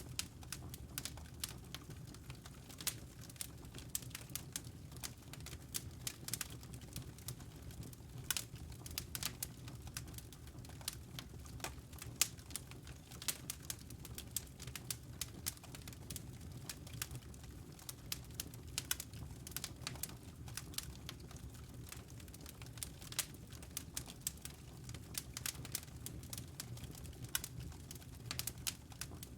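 Wood fire crackling: frequent irregular sharp pops and snaps over a low steady rumble of the flames.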